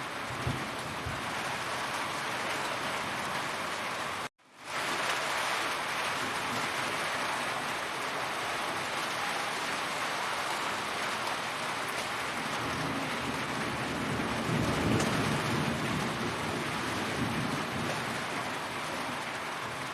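Heavy rain falling in a dense, steady hiss of drops. It cuts out for a split second about four seconds in, and a low rumble swells briefly later on.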